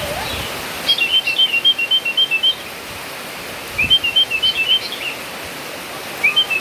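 Sooty-headed bulbul calling in three runs of quick, repeated chirps, a few seconds apart, over the steady hiss of heavy rain.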